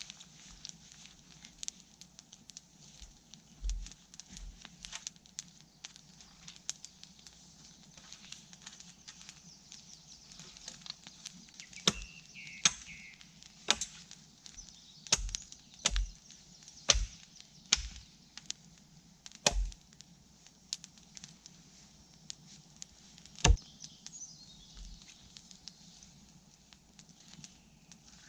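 Wood campfire crackling. Through the middle comes a run of loud, sharp cracks about a second apart, with one more a few seconds later.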